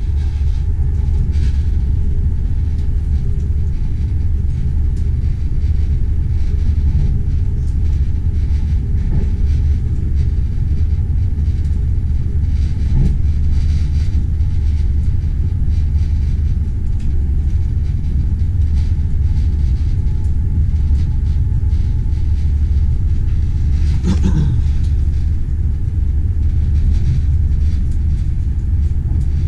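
Passenger train running on the rails: a steady low rumble, with one brief louder clatter about 24 seconds in.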